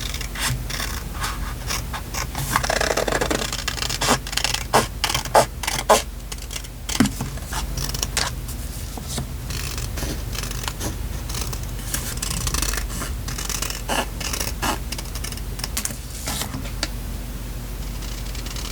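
Paper and stickers being handled for journal decorating: scraping and rustling with a run of light taps and clicks, sharper and more frequent about four to seven seconds in, over a faint steady hum.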